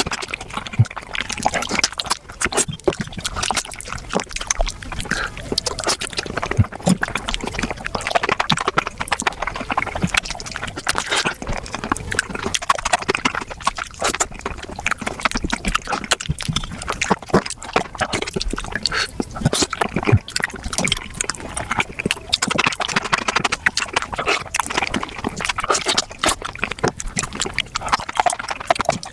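Close-miked wet chewing, smacking and slurping of gelatinous spicy beef feet, sped up to about five times speed so the mouth sounds run together into a rapid, continuous clicking.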